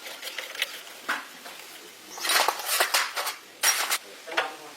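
Metal clinking and scraping in an irregular series of bursts, busiest in the middle, typical of tools and engine parts being handled on a workbench.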